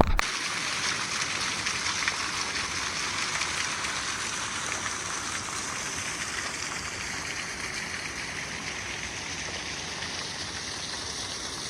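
Steady hiss of falling or rushing water, with no distinct drops or splashes, easing slightly over the last few seconds.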